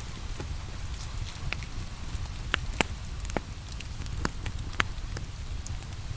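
Wood fire crackling in a fireplace, with irregular sharp pops, the loudest a few around the middle, over a steady hiss of falling rain and a low rumble.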